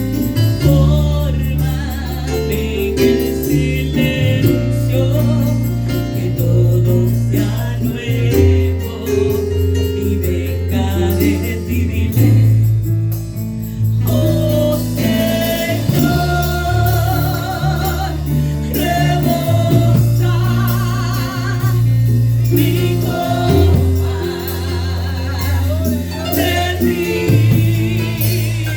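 Gospel praise-and-worship music: a band with a steady bass and cymbals, and singing voices that come forward about halfway through.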